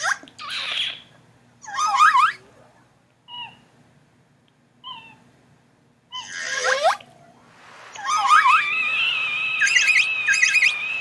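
High-pitched animal-like squealing cries that slide in pitch, voiced for a cartoon animal character. There are a few short cries and two faint chirps, then about eight seconds in a long wavering cry that is held.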